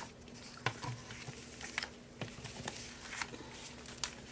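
Paper and craft tools being handled on a tabletop: scattered light taps and soft paper rustles, over a faint steady hum.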